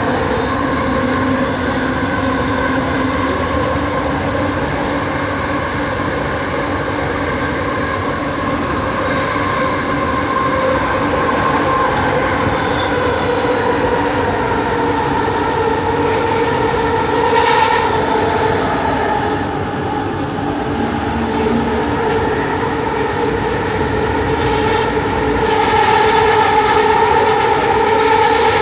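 Bombardier Innovia ART 200 train running, heard from inside the car: a steady rumble with several whining tones from its linear induction motors that drift slowly up and down in pitch as the speed changes. Brief hissing swells come in twice in the second half.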